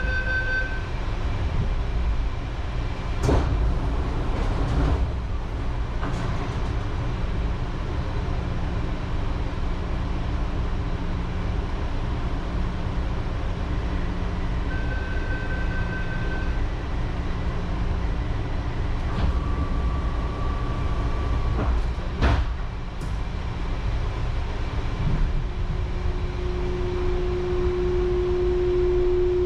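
Taipei Metro Brown Line rubber-tyred train running, a steady low rumble with two sharp knocks, about 3 s in and about 22 s in. There are short high beeping tones about 15 s in and 19 s in, and a steady hum from about 26 s in.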